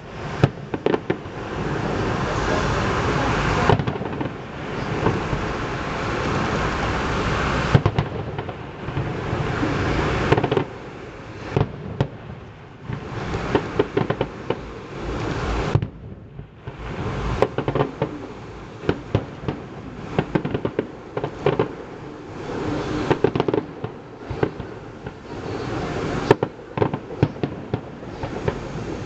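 Fireworks display: rapid bangs and crackling bursts over a continuous rumble, with a short lull about halfway through before the bangs resume.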